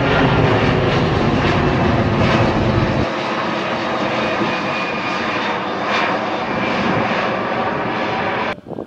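Passenger airliner's engines running loud and steady as it goes by on the runway. The deep rumble drops away about three seconds in, and the sound cuts off abruptly near the end.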